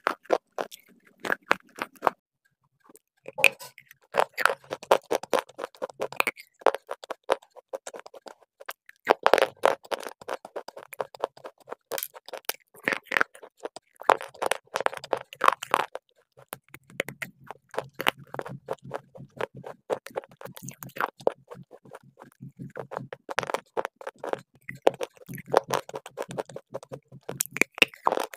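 Close-miked crunching and chewing of hard edible clay: slate pencils and shale pieces crack in crisp bites, in clusters with short pauses. The first couple of seconds are softer chewing of a cream-coated biscuit, followed by a brief silence.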